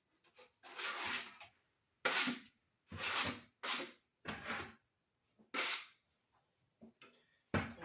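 A series of about six short scraping strokes at irregular intervals, each under a second.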